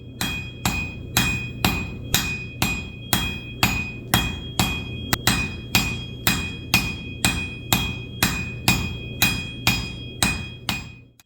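Blacksmith's hand hammer striking steel on an anvil in a steady rhythm, about two blows a second, with the anvil ringing on between blows. This is a railroad spike being forged into a knife blade.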